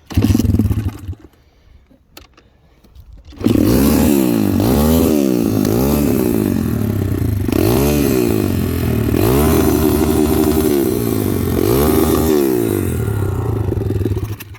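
Pit bike's small engine fires for about a second, then starts again a few seconds later and runs while being revved up and down over and over, stopping suddenly near the end.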